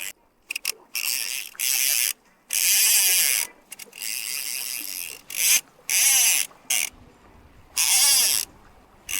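Spey fly reel's drag ratcheting in repeated bursts of half a second to a second as a hooked steelhead pulls line off the spool, the pitch rising and falling with the speed of the run.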